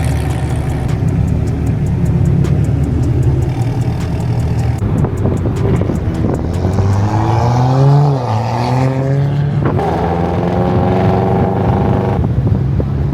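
Car engines running, one revving up about six seconds in and dropping back just after eight seconds.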